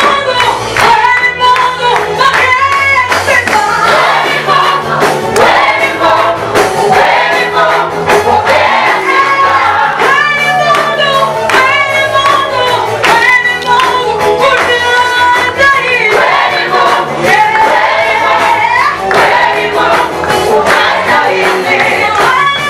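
Gospel choir singing a praise song with instrumental backing and a steady bass line.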